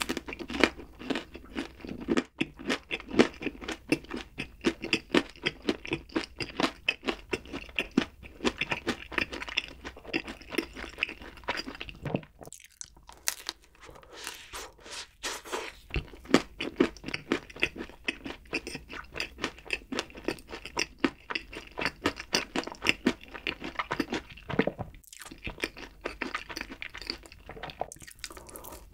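Close-miked chewing of crispy, red-coated fried chicken: a quick run of crunches with each bite, pausing briefly twice.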